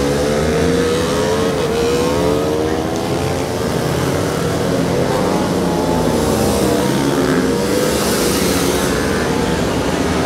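Small-displacement racing motorcycle engines revving hard on track. Their pitch climbs again and again as the riders accelerate out of corners and shift up.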